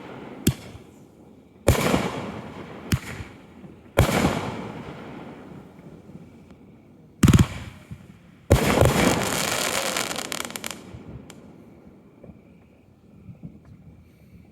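Aerial fireworks bursting: a run of sharp booms a second or more apart, each trailing off in a fading rumble, then a spell of dense crackling lasting about two seconds before it dies away.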